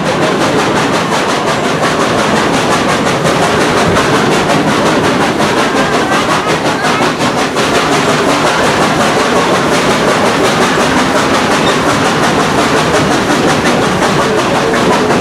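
Steady rumble and clatter of a steam-hauled passenger train, heard from aboard one of its cars as the wheels run along the rails.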